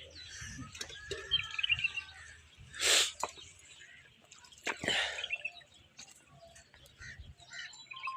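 Small birds chirping, with two short rushing noises, one about three seconds in and a second about two seconds later. The first is the loudest sound.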